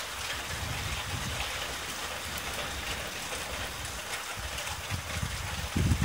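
Steady hiss of heavy storm rain, with uneven low rumbling underneath that swells briefly near the end.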